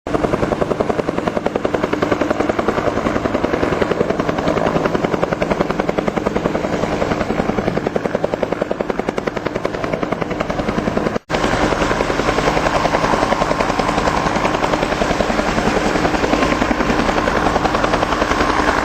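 Bell UH-1H Iroquois (Huey) helicopter's main rotor beating in a fast, steady rhythm, with the whine of its turbine underneath. The sound cuts out for an instant about eleven seconds in, then carries on.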